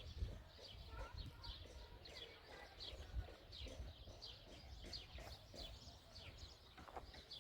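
Birds chirping throughout in many short, quick calls that drop in pitch, heard faintly over a low rumble.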